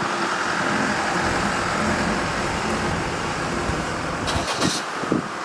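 JR Kyushu 815 series electric train running, a steady rumble of the train with a faint whine, broken about four seconds in by a few short, sharp high-pitched noises.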